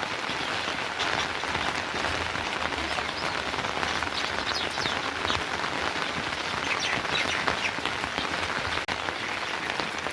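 Steady rain falling, an even hiss with scattered small drips.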